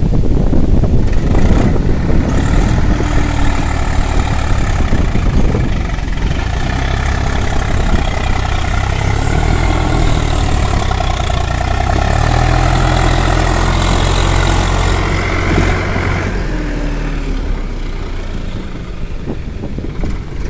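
Swaraj 744 XT tractor's three-cylinder diesel engine running hard while hauling a sugarcane load. Its note climbs about halfway through and falls back a few seconds later.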